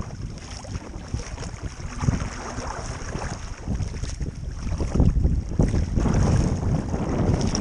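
Strong gusty wind buffeting the microphone on open water, swelling and dropping in surges, with the rush of wind-driven chop beneath it.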